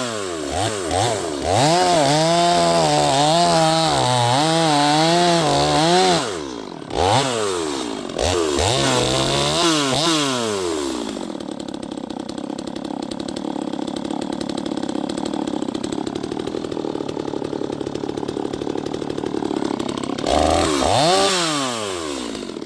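Neotec NS846 45.4cc two-stroke chainsaw being revved up and down repeatedly, briefly held at speed, then dropping back to a steady, lower idle for several seconds before two more quick revs near the end. It is running a little rich on its factory carburettor setting, with the idle set too low, and needs adjustment.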